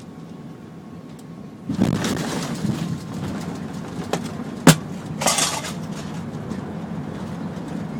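Airbus A380 touching down, heard from inside the cabin: about two seconds in, the quiet cabin hum gives way suddenly to a louder rumble with cabin fittings rattling. A sharp knock comes near the middle, followed by a short rattle, then the steady rumble of the jet rolling down the runway.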